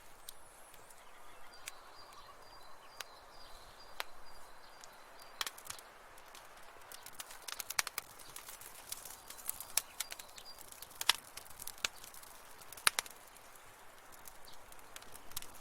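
Wood fire crackling in a fireplace: frequent sharp pops and snaps over a soft hiss, busiest in the middle stretch. Early on, a faint thin whistling tone runs for a few seconds.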